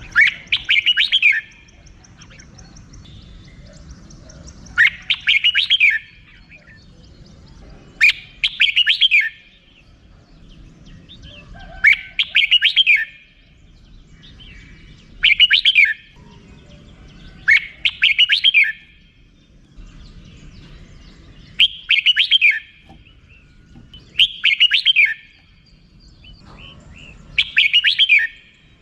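Red-whiskered bulbul singing its 'rik' song: nine short rapid chattering phrases of about a second each, repeated every three to four seconds.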